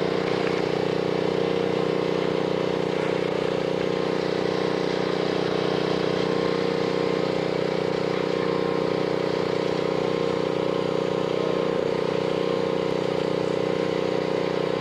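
Engine and road noise of a van heard from inside while driving: a steady, even drone with no changes in speed.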